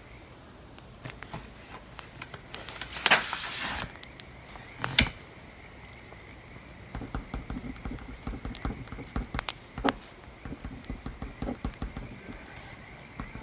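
Writing at a desk: a run of small taps and scratches of a pen or pencil on paper, with a louder paper rustle about three seconds in and a single sharper knock about five seconds in.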